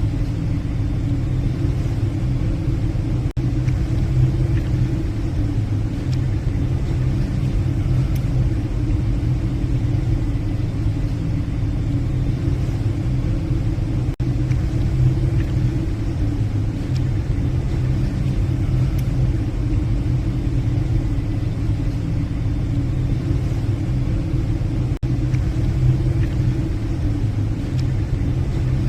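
Steady low rumble of a passenger ship under way, its engines droning as heard from the bridge, with three momentary breaks.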